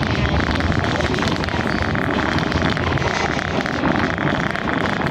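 Steady rumble and rattle of a heritage passenger train rolling along the track, heard from aboard a coach.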